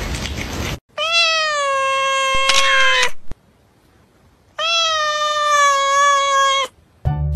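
A domestic cat meowing twice, two long, drawn-out meows of about two seconds each at a steady pitch. A stretch of background noise cuts off before the first meow, and music begins near the end.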